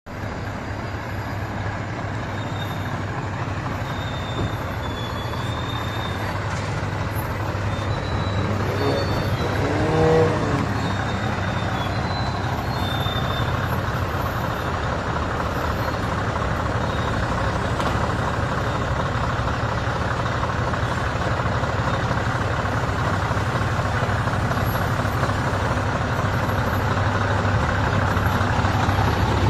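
Scania R620 truck's V8 diesel engine running steadily and slowly growing louder. A short rising pitched sound peaks about ten seconds in.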